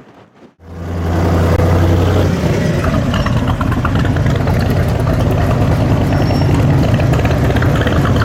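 V8 car engine that comes in suddenly about half a second in, with a strong low hum for the first couple of seconds, then runs loud and steady at idle.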